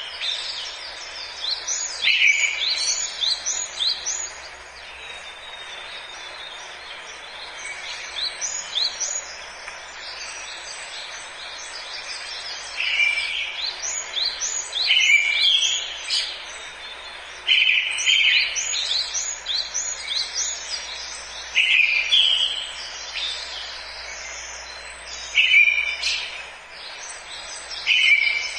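Several birds singing in a forest. One repeats a short two-note phrase every few seconds, and others give runs of quick, high, falling notes over a steady background hiss.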